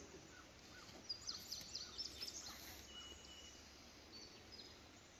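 Faint birdsong: quick high chirps and short whistles over a steady outdoor hiss, busiest in the first half.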